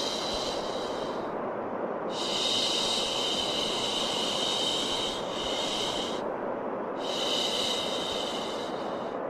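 Repeated long 'shhh' shushing sounds for soothing a baby, each lasting a few seconds with short breaks between, over a steady rushing white noise.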